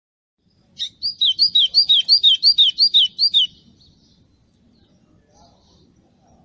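A songbird sings a fast run of about eight identical two-note phrases, high and clear, for about two and a half seconds, then stops.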